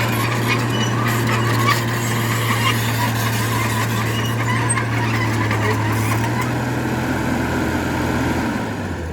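Heavy earthmoving machine's diesel engine running steadily, with frequent clattering and scraping on top. The sound fades down near the end.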